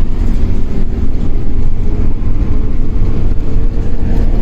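Running noise inside a Shinano Railway 115 series electric motor car (KuMoHa 115): a heavy, steady low rumble of wheels and traction motors, with a faint whine that rises slowly in pitch near the end.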